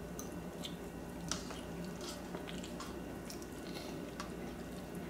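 A man chewing a mouthful of hot instant ramen noodles: faint, wet mouth sounds with scattered small clicks over a low steady hum.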